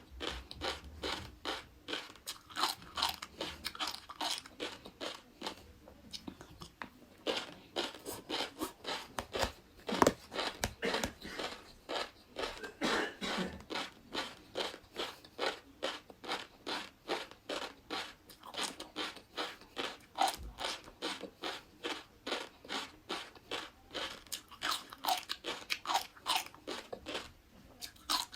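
Close-miked chewing of a mouthful with flying fish roe, the little eggs crunching and popping in a steady rhythm of about three chews a second, with one louder snap about ten seconds in.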